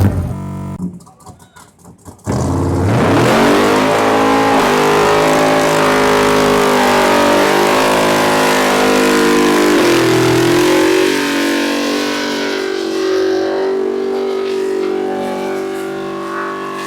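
A car's engine revving hard during a burnout, its pitch climbing fast and then held high, with the hiss of spinning tyres over it. It dips briefly and then slowly fades near the end.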